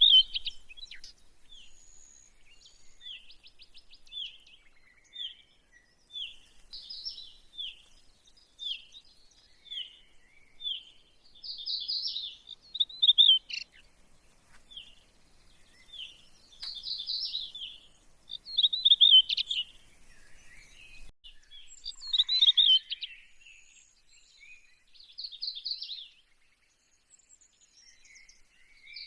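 Birds chirping and singing: a run of short repeated high chirps, broken by louder warbling phrases every few seconds.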